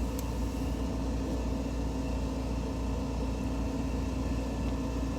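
Steady low mechanical hum, even and unbroken, with a constant low drone and a held mid-low tone.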